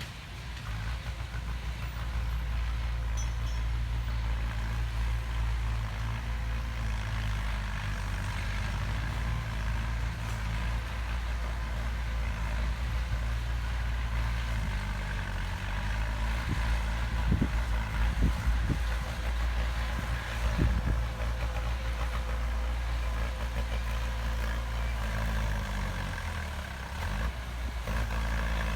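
Heavy diesel earthmoving machinery running steadily, with a few short knocks about halfway through and a brief drop in engine sound shortly before the end.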